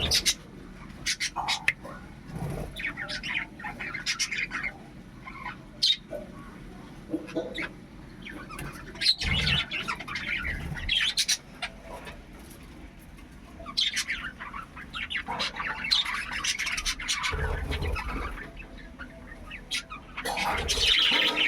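Budgerigars chirping and squawking, in a busy run of short, high calls that come in spells.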